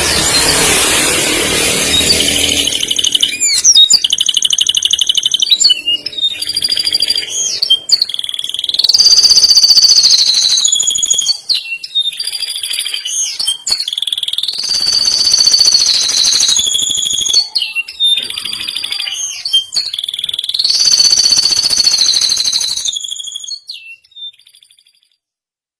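Male domestic canary singing long, fast rolling trills, phrase after phrase, each holding a high pitch for a second or two before sliding to another, with a harsher scratchy passage at the start. The song stops shortly before the end.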